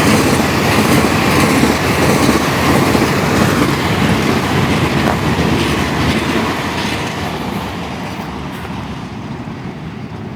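Taroko Express train running on the rails: a steady rumble of wheel and track noise that slowly grows quieter toward the end.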